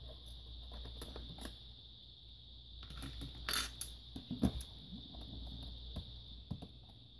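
Scattered small clicks, taps and light scrapes of hands and a tool working on a laptop's plastic case and parts, with a louder rustle about three and a half seconds in.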